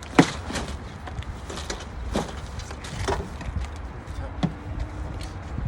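Fishing gear being loaded into a car: a series of knocks and clunks, the loudest about a quarter second in and a sharp one near the end, over a steady low rumble.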